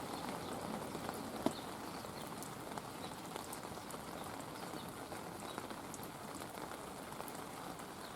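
Light rain falling, a soft steady patter with scattered drop ticks and one sharper tick about a second and a half in.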